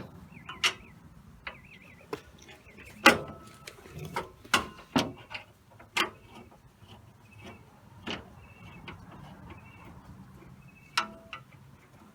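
Hand tools clicking and clinking on metal at irregular intervals under the truck, typical of a socket wrench taking off an underbody panel; the loudest knocks come about three and five seconds in.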